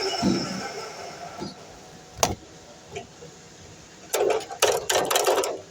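DeWalt miter saw's motor winding down after a cut, its whine fading away over the first second or so. Then a single sharp knock, and near the end a second and a half of scraping and clattering.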